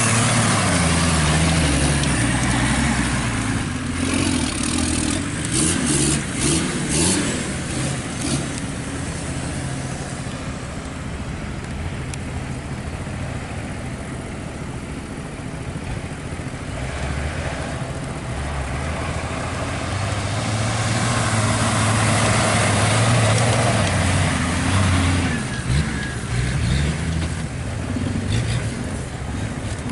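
Jeep and motorbike engines running and revving, the sound swelling at the start and again past the middle as vehicles go by.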